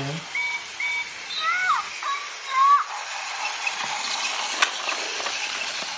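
Battery-powered Tomy toy trains running on plastic track: a steady whirring, hissing rattle of small motors and wheels, with a few short high squeaks in the first few seconds and a sharp click about halfway through.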